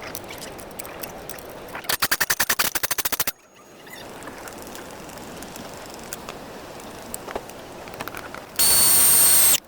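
A quick run of sharp clicks, about a dozen a second, for over a second. Near the end comes a loud, steady, high-pitched electronic beep lasting about a second.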